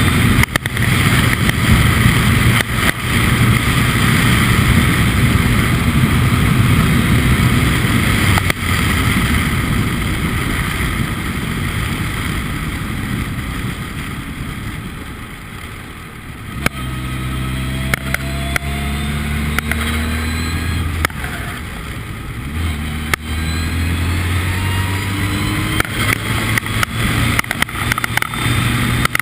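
Formula Ford race car engine running hard, then easing off and going quieter about halfway through. It then accelerates again through the gears, the pitch climbing after each shift.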